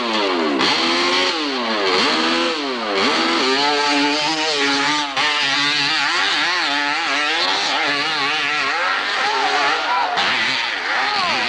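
Hillclimb racing motorcycle engine revved hard in several quick rising blips, then held at high revs with the pitch wavering up and down as the bike climbs and the rear wheel grips and spins.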